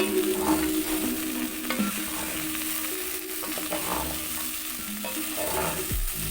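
Goat meat and potatoes sizzling in a cooking pot while being stirred with a spoon, the stirring scraping over the hiss of frying.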